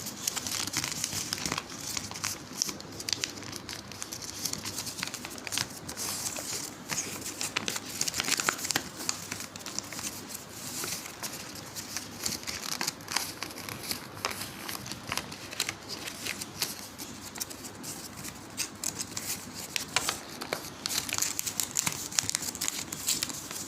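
A sheet of paper being folded and creased by hand, crinkling and rustling with many small irregular crackles.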